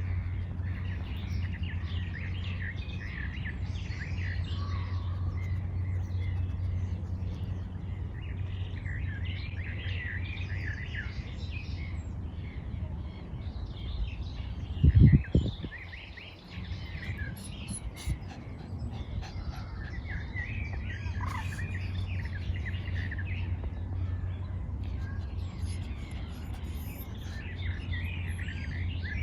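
Several small birds chirping and singing over a steady low rumble. About halfway through there is one loud, brief low thump.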